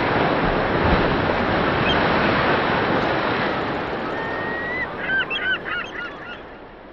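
Surf washing in a steady rush that slowly fades, with a quick run of short, repeated bird calls about five seconds in.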